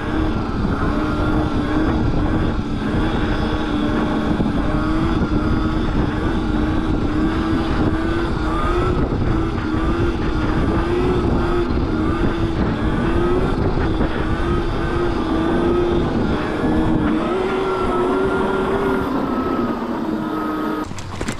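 A mini bike's motor running under way, its pitch wavering up and down with the throttle over a heavy low rumble. The motor sound stops just before the end.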